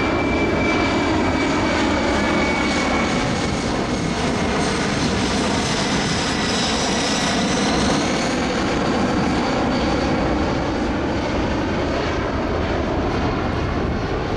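Boeing C-17 Globemaster III's four turbofan engines running loud and steady in a display pass, a dense jet rumble with a high whine that bends in pitch about halfway through.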